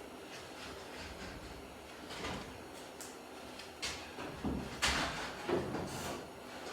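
A quiet stretch, then from about two seconds in a run of short knocks and scrapes, several in close succession near the end, like things being handled or moved.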